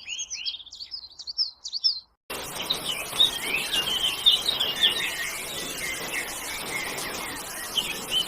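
Small birds chirping in quick repeated notes. A little over two seconds in, the sound cuts abruptly to a noisier recording: a busier chorus of overlapping chirps over a steady hiss.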